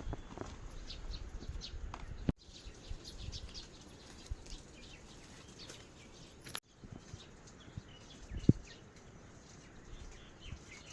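Small birds chirping over and over in short, high calls, with a low rumble underneath. A single loud knock comes about eight and a half seconds in, and the sound cuts out for an instant twice.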